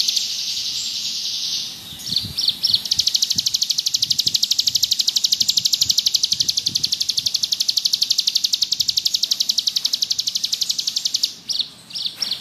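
Ciblek gunung (a prinia) singing a long, rapid buzzing trill in the "ngebrem" style of a bird in full song. It is made of very fast repeated high notes, about ten a second, broken briefly near two seconds in and trailing into a few separate chips near the end.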